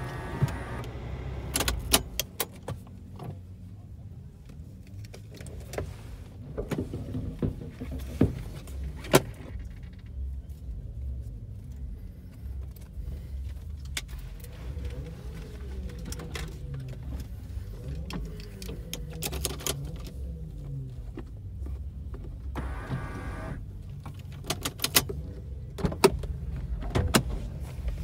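Lexus IS200's supercharged straight-six engine idling at a standstill, a steady low rumble, with sharp clicks and knocks scattered over it, more of them near the start and near the end.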